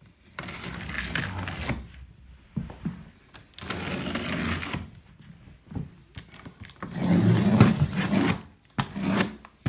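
Cardboard box packaging being torn open and handled: three rasping bursts, each about a second and a half long, with scattered knocks and clicks between them.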